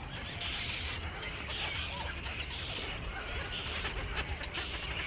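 A flock of small birds chattering and chirping at once, a dense, continuous mass of overlapping calls, over a steady low hum.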